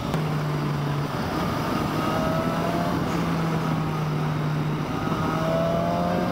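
BMW S1000XR inline-four engine running steadily at road speed, over wind noise on the helmet-camera microphone. Twice a brief higher whine rises as it pulls.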